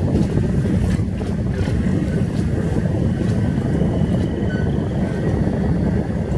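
Steady low rumble of a passenger riverboat's engine and wash, with wind buffeting the microphone.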